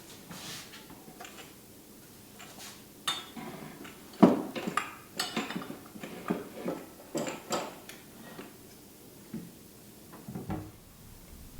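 Kitchenware being handled: a string of irregular clinks and knocks of dishes and utensils, the loudest about four seconds in.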